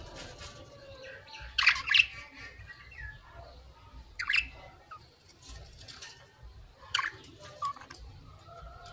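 Birds chirping: a handful of short, sharp chirps a few seconds apart, a doubled one about two seconds in, over a faint steady background.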